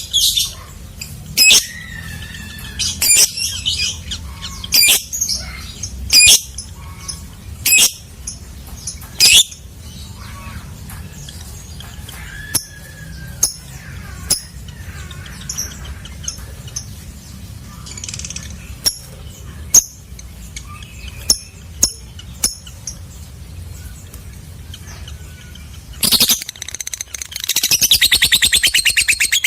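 Lovebird calling: sharp, shrill chirps about every second and a half, then softer scattered chirps, and near the end a fast, continuous chattering trill, the long 'ngekek' that lovebird keepers prize.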